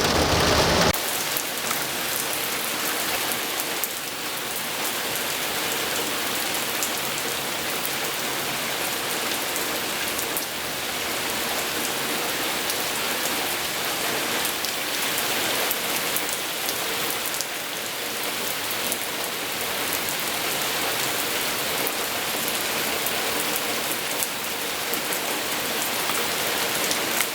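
Steady rain falling, an even hiss dense with individual drop ticks.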